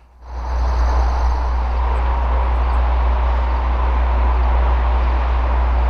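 Freight train running by: a steady deep rumble with an even rolling noise over it and a faint steady tone in the middle. It swells in just after the start.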